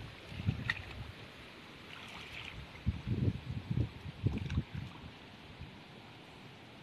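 Shallow water sloshing in a handful of short splashes, bunched together about three to four and a half seconds in, with a few faint clicks.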